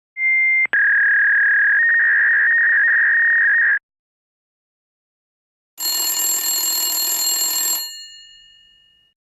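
Two separate ringing sound effects. The first is a steady, high electronic ring like a telephone ringer, lasting about three and a half seconds with a short break near the start. After a gap comes a bright bell-like ring of about two seconds that fades away.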